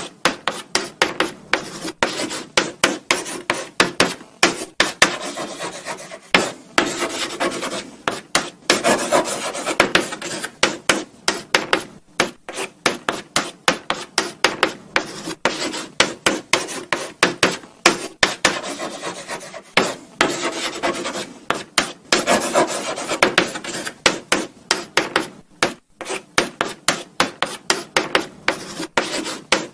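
Chalk writing on a blackboard: quick scratching and tapping strokes, several a second, with brief pauses between words.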